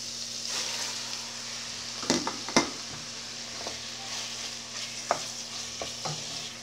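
Diced raw chicken sizzling and frying as it goes into a pan of onion sautéed in margarine, stirred in with a spoon. A few sharp clinks and scrapes of the spoon against the aluminium pan, the loudest about two and a half seconds in.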